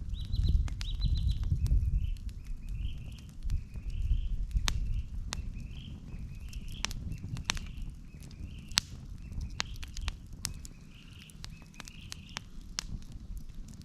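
Wood fire crackling with frequent sharp pops over a low rumble that is stronger in the first few seconds. A bird calls repeatedly through it, about once a second, and stops near the end.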